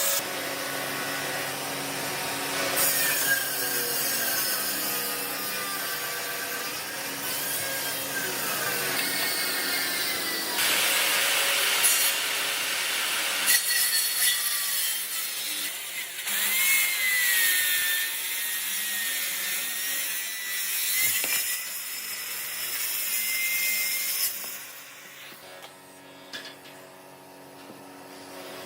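Power tool working wood, a motor whine wavering in pitch over a rough, noisy cutting sound. The sound changes abruptly several times and drops quieter about 25 seconds in.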